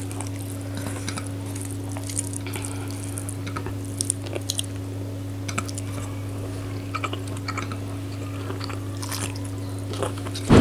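Close-up chewing and wet mouth sounds of eating chicken curry and rice by hand: scattered small smacks and clicks, over a steady low hum.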